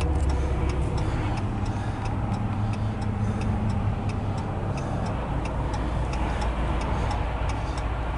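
Steady low vehicle rumble with quick light ticking running through it.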